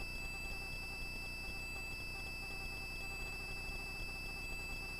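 Faint steady electronic hum with a thin high whine on the helicopter's headset intercom feed, between transmissions.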